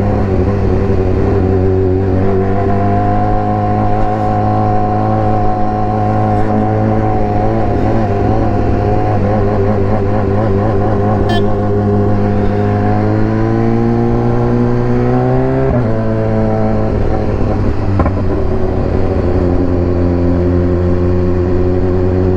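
BMW S1000R's inline-four engine running steadily under way. Past the middle the revs climb steadily, then drop sharply about two-thirds of the way through and settle to a steady lower note.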